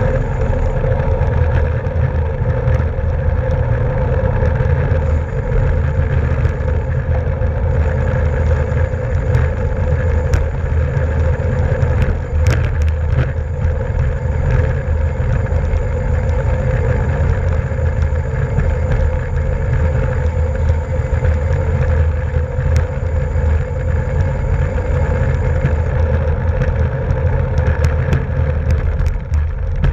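Steady wind rush on a camera microphone carried on a bicycle at racing speed, with tyre and road noise and a few scattered clicks.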